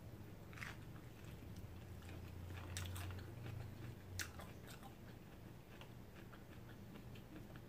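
Faint close-mouthed chewing of a bitten fresh spring roll (rice paper and lettuce), with soft wet mouth sounds and a few sharper crunchy clicks.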